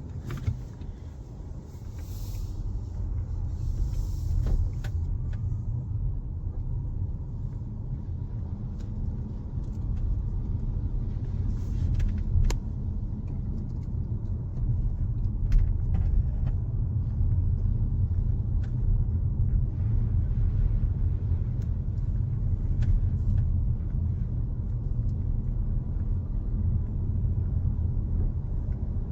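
Low, steady rumble of a car driving, picked up by a dashcam, growing louder over the first few seconds, with scattered faint ticks.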